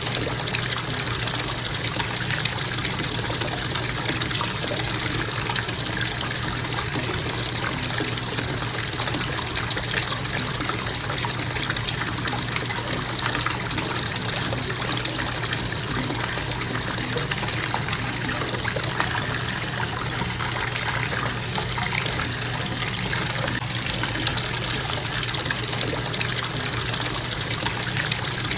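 Bathtub faucet running steadily into the tub, a constant, even splashing rush of water.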